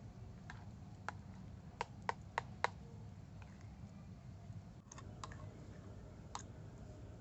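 A series of short sharp taps and clicks, about ten in all, with four louder ones in quick succession around two seconds in, over a faint low steady hum.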